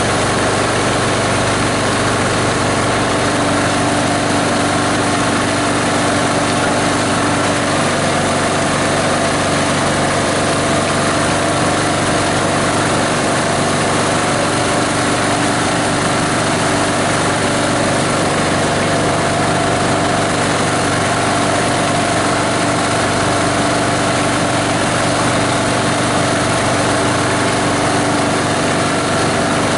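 The 18 HP diesel engine of a multi-blade plastic grinder running steadily, with a slight shift in its note about eight seconds in.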